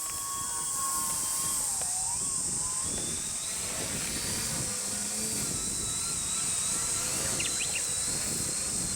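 Electric motor and propeller of a Skywing Sbach 342 RC foam aerobatic plane buzzing in flight. Its whine dips in pitch about two seconds in, then climbs higher and wavers as the throttle changes.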